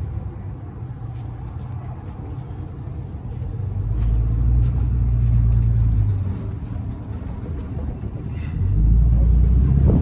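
An engine running with a low rumble that swells louder twice, about four seconds in and again near the end.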